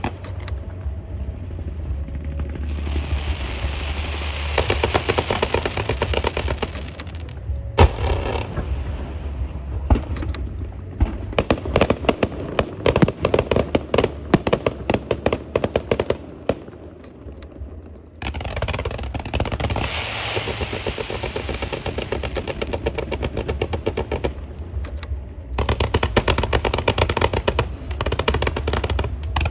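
Firecracker strings going off in rapid, dense crackling volleys, with two long stretches of loud hissing from fireworks, one a few seconds in and one past the middle.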